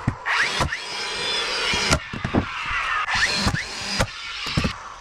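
A handheld power tool running in short spells, its pitch sliding up and down, with repeated knocks from work on the wall framing.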